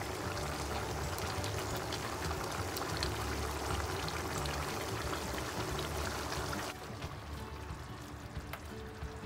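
Chicken afritada simmering in a frying pan: thick tomato-based sauce bubbling and popping steadily with small crackles. About seven seconds in it gets quieter.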